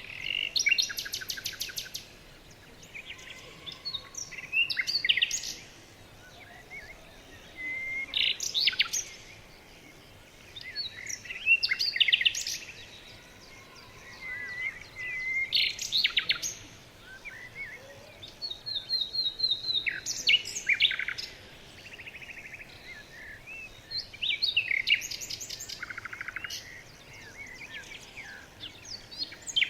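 Songbird singing, repeating short phrases of whistled notes that end in fast trills, about one phrase every four seconds.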